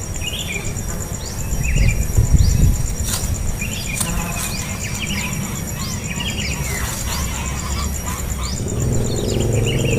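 Birds chirping in short, high calls and quick rising and falling notes, over a steady, pulsing, high insect drone. A low hum comes in near the end.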